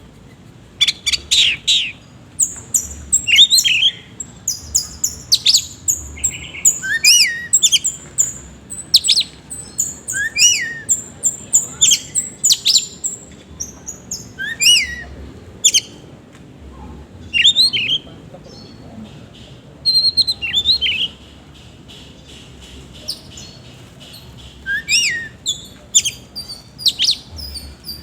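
Oriental magpie-robin singing energetically: fast runs of sharp whistles, quick sweeping notes and harsh chips mixed with imitated phrases, broken by a short pause about two-thirds of the way through.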